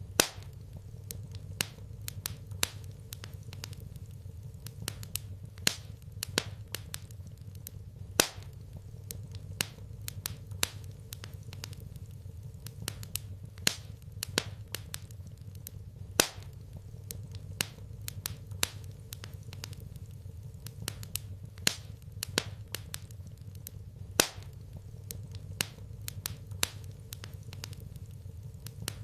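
Wood fire crackling in a fireplace: irregular sharp pops and snaps, several a second, over a steady low hum.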